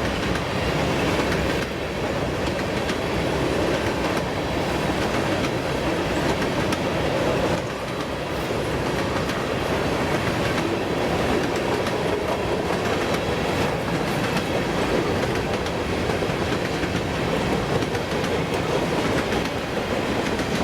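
Freight train of empty covered grain hoppers rolling past: a steady rumble with the clatter of steel wheels running over the rail.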